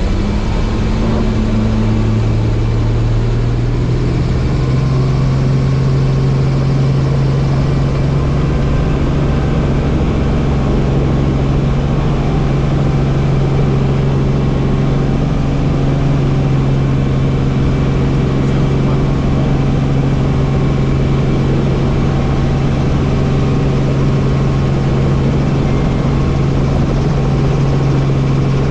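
Helicopter running: a loud, steady low hum over a thick wash of noise. The hum rises slightly in pitch over the first few seconds, then holds level.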